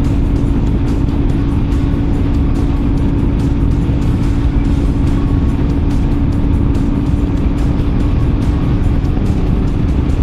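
Motorcycle engine running at a steady cruise, a constant drone with heavy wind rumble over the microphone from riding at speed.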